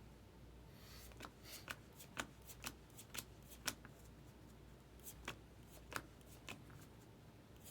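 Baseball trading cards being flipped through by hand one after another: a quick, irregular series of short, sharp card snaps, faint against a low hum.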